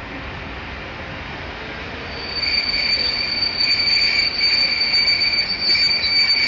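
Class 172 diesel multiple unit arriving at a platform, its wheels setting up a high, steady two-tone squeal from about two seconds in over the low rumble of the train.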